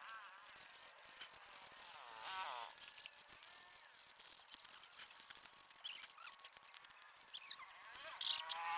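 Insects, crickets among them, drone steadily at a high pitch, with a short falling animal call about two seconds in and scattered light clicks.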